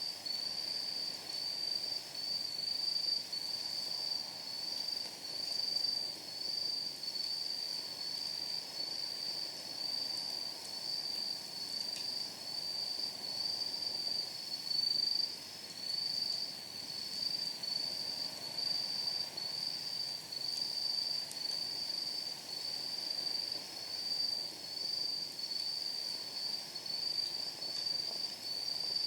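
A night insect sings a high, steady chirp that pulses about one and a half times a second. Underneath, a wood fire in a steel fire pit crackles faintly, with a single sharp pop near the middle.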